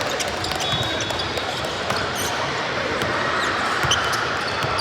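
Game sounds echoing in a large gym: scattered sharp ball bounces and knocks, and brief high squeaks, over a steady murmur of crowd and players.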